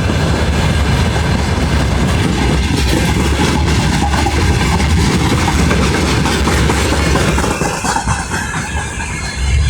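Freight train rolling past close by: a loud, steady rumble of wagons with wheels clacking over the rail joints, easing slightly near the end.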